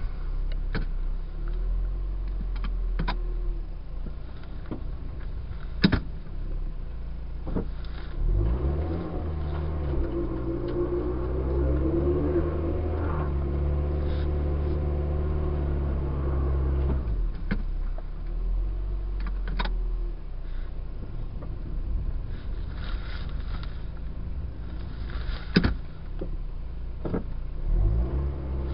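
Car engine heard from inside the cabin, running under load and revving up and down several times as the car is worked through deep snow to get unstuck on a hill. A few sharp clicks stand out, the loudest about six seconds in and near the end.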